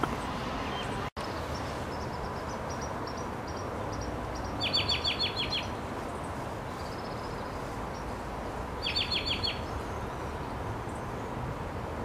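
Bird calls over a steady background hum: two quick runs of six or seven repeated downslurred notes about four seconds apart, with fainter thin high notes before the first run. The sound cuts out for an instant about a second in.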